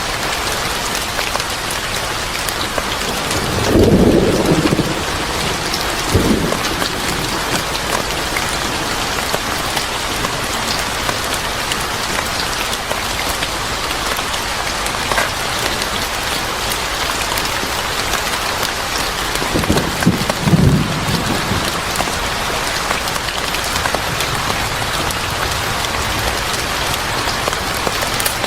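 Steady rain with thunder: two short low rumbles stand out, about four seconds in and again around twenty seconds in, with a briefer one just after the first.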